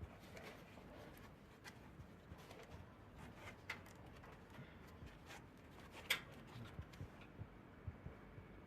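Near silence in a small room, broken by faint scattered light clicks and taps, the sharpest about six seconds in.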